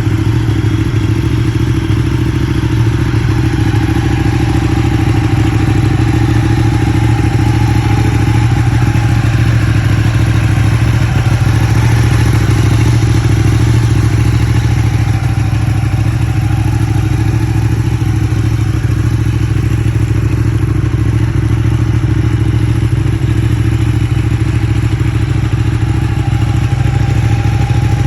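Ducati 959 Panigale's 955 cc Superquadro L-twin engine running at a steady idle.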